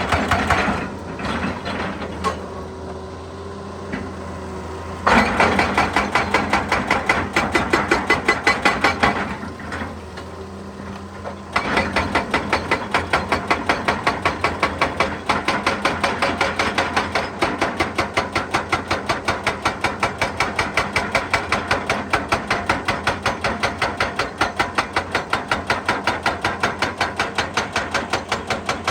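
Excavator-mounted hydraulic hammer pounding rock in rapid, evenly repeated blows. A first run starts about five seconds in and stops after about four seconds, and the hammering starts again about halfway through and goes on steadily.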